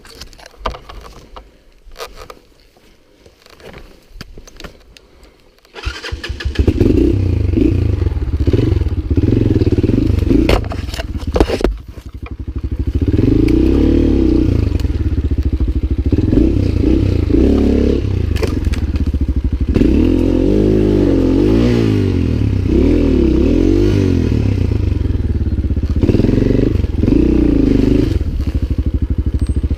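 Lifan LF200GY-5 enduro motorcycle's single-cylinder engine starting about six seconds in after a few clicks and scrapes, then running loudly with the revs repeatedly rising and falling; the sound dips briefly near twelve seconds before picking up again.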